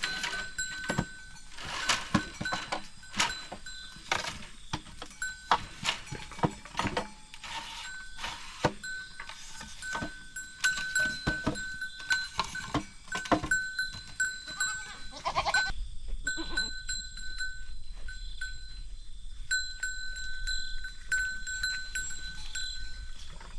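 Goats moving about with a run of sharp knocks and clatters, and a single goat bleat about fifteen seconds in.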